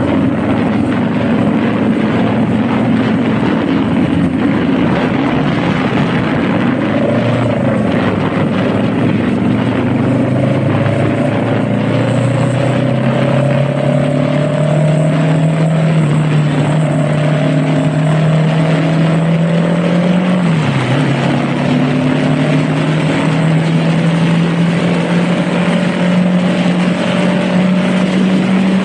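Honda Rebel motorcycle engine running under way, its pitch climbing slowly as the bike gathers speed and dipping once about twenty seconds in before climbing again, under steady wind rush over the microphone.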